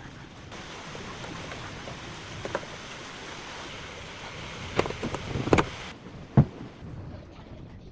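A small boat on the water: a steady rush of water and wind, with a cluster of sharp knocks and splashes about five to six and a half seconds in.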